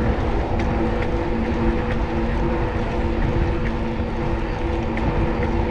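City street traffic, with a nearby motor vehicle's engine idling in a steady hum over a low rumble.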